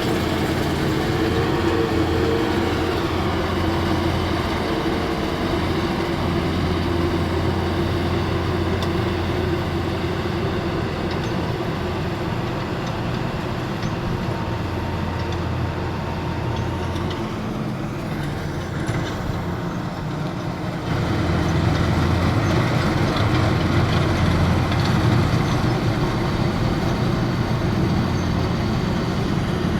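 Heavy machine's engine running steadily with a constant low drone. It eases slightly for a few seconds past the middle, then picks up louder about three-quarters of the way through, as if under more load.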